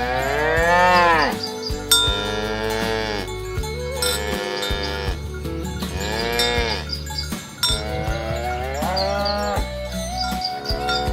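Cattle mooing repeatedly: about six long moos one after another, each rising and then falling in pitch.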